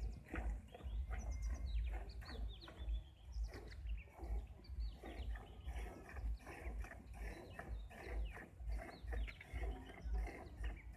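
Small birds chirping busily in quick, falling notes, with a steady low rhythmic pulsing about twice a second underneath.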